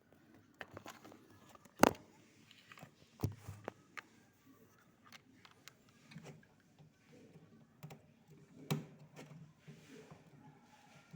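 Scattered clicks and knocks of objects being handled. The sharpest knock comes about two seconds in and another near the nine-second mark.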